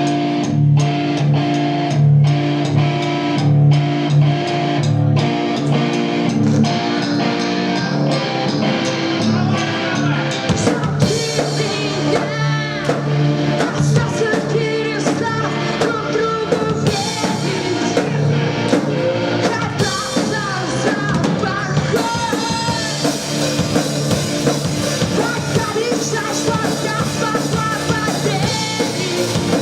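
Live rock band playing with electric guitar, bass and drum kit; a singer comes in about ten seconds in and the band gets fuller and louder a little later.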